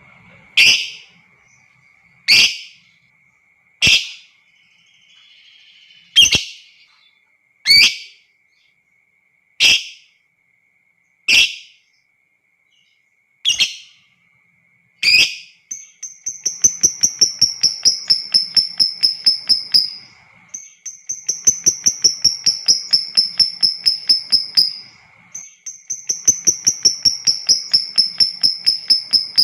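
Lovebird calling: about nine sharp single calls spaced a second and a half to two seconds apart. From about halfway in, these give way to three long bouts of rapid chattering trills with a falling whistle on top: the long 'ngekek' of a lovebird in breeding condition.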